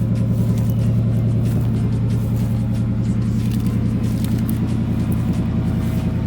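A truck engine running with a steady low drone.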